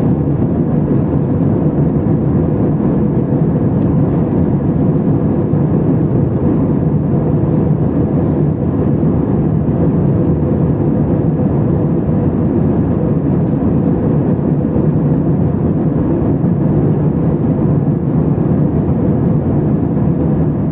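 Steady cabin noise inside an Airbus A320: the jet engines' drone and the rush of air, with a steady low hum, unchanging throughout.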